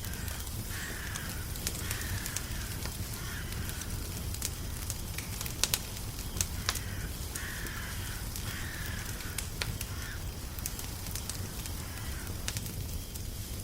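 Wood fire crackling, with sharp pops over a steady low rumble. A bird calls in two runs of several short calls.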